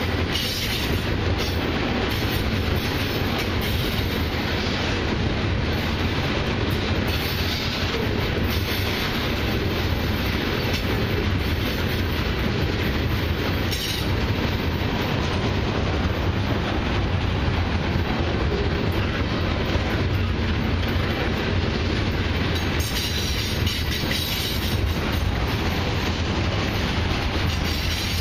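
Loaded crude-oil tank cars of a long freight train rolling past at speed: steady, heavy noise of steel wheels running on the rails.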